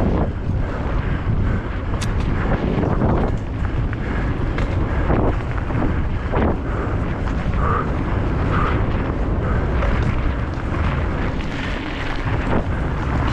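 Wind buffeting the microphone of a camera on a mountain bike rider descending at speed, with irregular knocks and rattles from the bike over rough ground.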